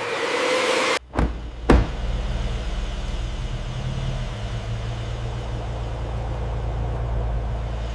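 A hissing rush cuts off abruptly about a second in, followed by two sharp knocks half a second apart. Then a car engine idles steadily with a low, even rumble.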